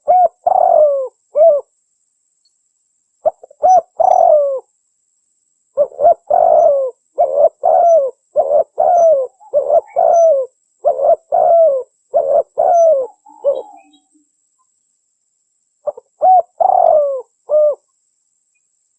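Spotted dove (tekukur) cooing: short falling coo notes strung into phrases, one group at the start, another about three seconds in, a long run of about a dozen coos in the middle, and a last group near the end, with pauses of a second or two between them. This is the dove call played back to lure wild spotted doves.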